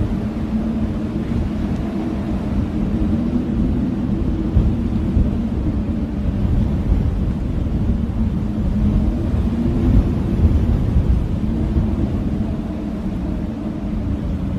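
Blizzard wind howling, its low moaning pitch slowly rising and falling over a steady low rush.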